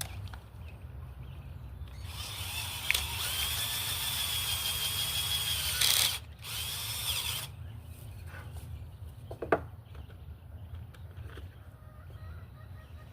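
Power drill boring pilot holes in wood: one steady run of about four seconds, a brief stop, then a shorter second run, followed by a single sharp click.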